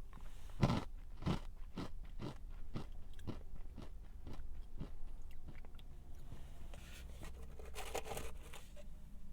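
A bite into a crunchy snack, then chewing with crisp crunches about twice a second that grow fainter as it breaks down; near the end a louder burst of crunching as another bite is taken.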